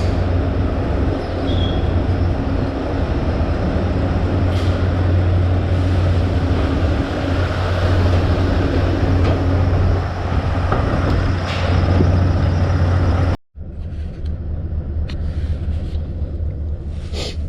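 Heavy truck diesel engine idling with a steady low drone. About thirteen seconds in it cuts out abruptly and comes back quieter.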